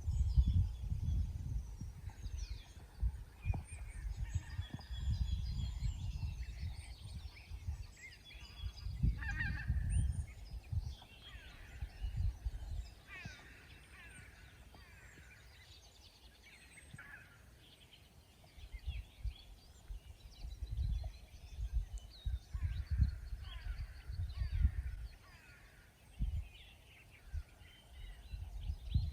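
Birds calling and chirping, many short quick notes, over bursts of low rumble that come and go and ease off for a few seconds in the middle.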